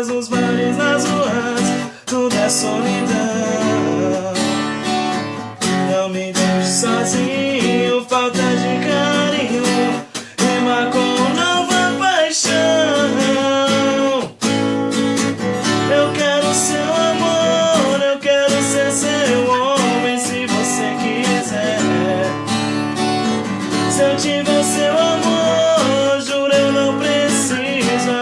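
Music: an acoustic guitar strummed steadily, with a melody line gliding between notes over it.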